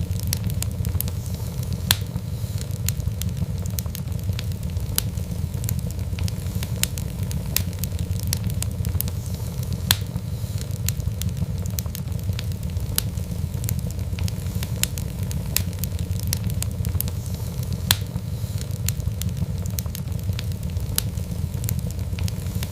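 Wood fire burning with a steady low rumble and frequent sharp crackles and pops, a few louder snaps scattered through.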